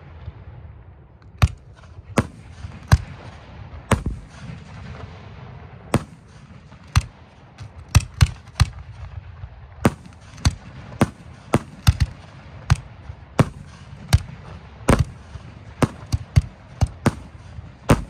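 Aerial fireworks shells firing and bursting: a series of sharp bangs over a low rumble, spaced a second or two apart at first and coming about two a second in the second half.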